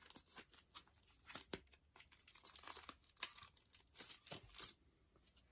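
Packaging crinkling and rustling in quick, irregular crackles as a photocard is unwrapped by hand; it stops near the end.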